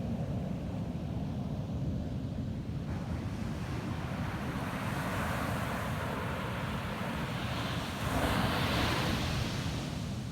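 Ocean surf on a beach: the wash of the waves swells over several seconds and a wave breaks about eight seconds in, the loudest moment, then eases off, over a steady low rumble.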